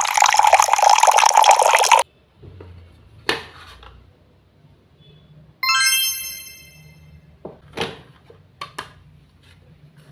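Water running in a steady stream for about two seconds, then cut off suddenly. Scattered light clicks and taps follow. About six seconds in, a bright bell-like chime rings once and fades over about a second.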